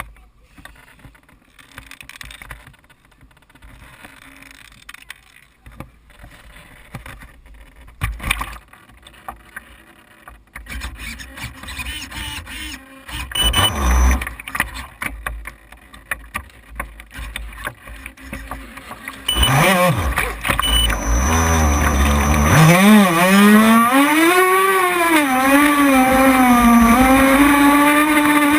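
Small boat engine running at high revs, its pitch wavering up and down as the throttle changes; it comes in loud about two-thirds of the way through, after a stretch of faint low rumbling and a few knocks.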